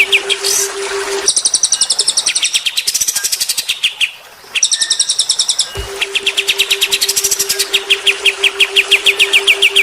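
Cage-bird training recording of songbirds singing fast, repeated chirping trills, many notes a second, switching between a lower chirp series and high, thin rattling trills, with a brief pause about four seconds in. A low, steady pulsing tone runs underneath, dropping out just after a second and coming back near six seconds.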